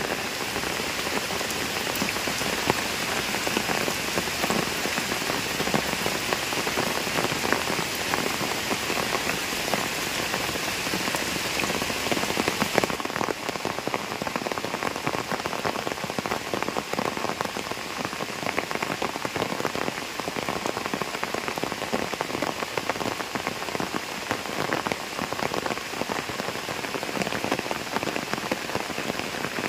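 Steady rain falling onto a pond's surface and wet ground, a dense hiss of countless drops. It changes a little in tone about halfway through.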